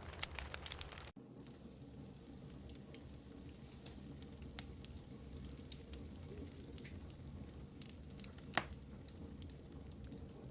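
Wood fire in a fireplace crackling, with scattered small pops over a low steady rumble and one louder pop about eight and a half seconds in. The sound drops out for an instant about a second in.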